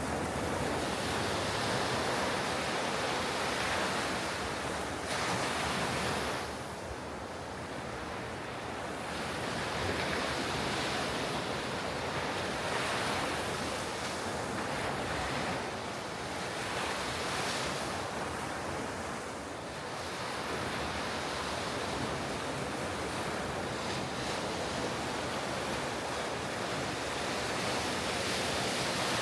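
Ocean surf breaking on a beach, a steady rush that swells and eases as the waves come in, with some wind on the microphone.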